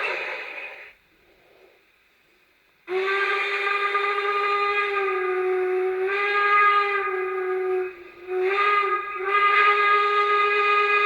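Phoenix sound module in an LGB Aster three-truck Shay model steam locomotive, played through its small speaker: a short hiss of steam at the start, then about three seconds in a long, steady steam-whistle blast, broken briefly near eight seconds and then sounding again.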